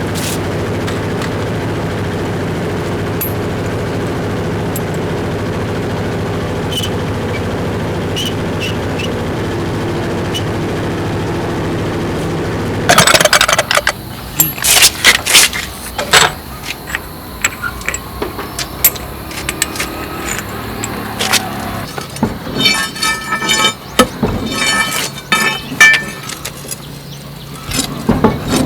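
A steady engine hum that cuts off abruptly about halfway through, followed by a string of sharp metal knocks and clanks, some of them ringing, typical of tools working on a truck tyre and wheel.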